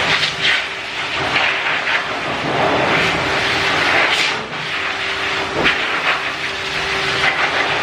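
Pet grooming dryer running, blowing a loud, steady rush of air with a faint steady hum underneath.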